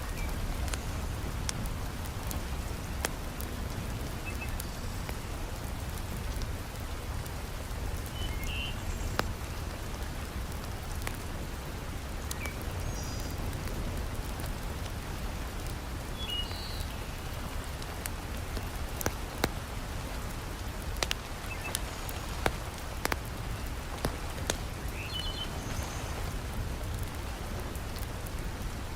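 Heavy rain falling steadily, mixed with scattered sharp pops and crackles of a wood fire burning in a fireplace. A few faint high chirps sound here and there.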